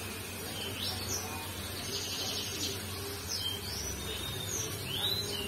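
Small birds chirping: short, quick up-and-down chirps repeating every second or so, over a steady low hum.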